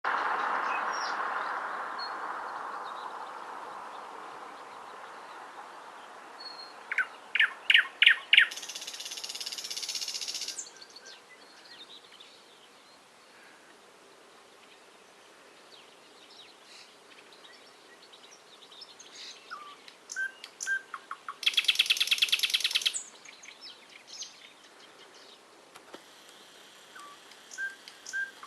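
Wild songbirds singing. Twice a loud song rings out, first as a handful of clear notes running into a fast, buzzy trill and later as another fast trill, with softer chirps between them. A hiss at the start fades away over the first several seconds.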